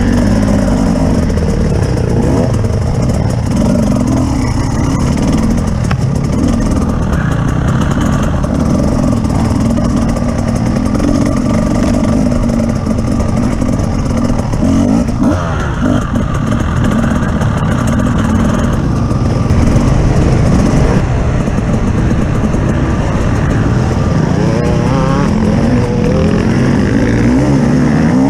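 Off-road vehicle engine running continuously under changing throttle, its pitch rising and falling as the revs change.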